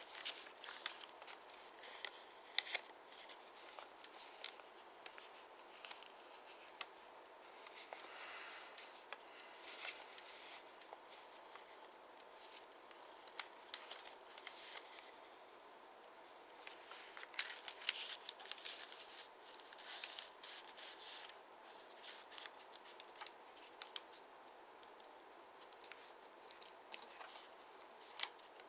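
Origami paper being folded and creased by hand: faint, scattered crinkles, taps and short rustles of the paper at an irregular pace.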